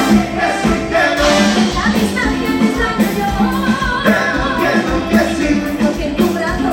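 Live dance band playing a Latin pop number through a PA, with a steady driving beat and melody lines over it.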